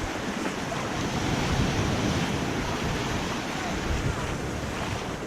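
Ocean surf washing and breaking, with wind buffeting the microphone.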